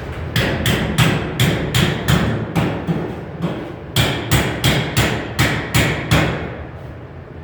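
Hammer blows on sheet metal, about three a second, in two runs of about eight strikes with a short pause between.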